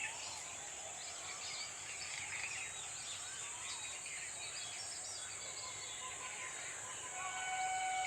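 Outdoor ambience of many small birds chirping in short, scattered calls over a steady high hiss. About seven seconds in, a steady pitched tone with overtones starts and stays on.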